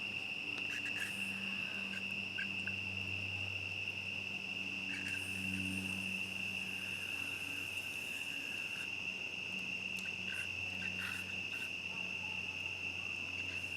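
Crickets chirping in a steady high-pitched chorus, with a faint low hum underneath and a few scattered faint clicks.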